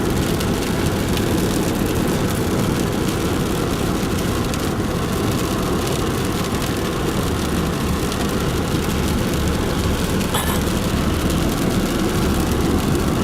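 Steady road and wind noise of a car driving at speed, with a low engine rumble underneath.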